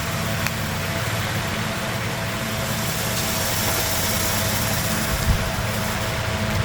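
Steady low mechanical hum with a constant faint whine and hiss, unchanging throughout.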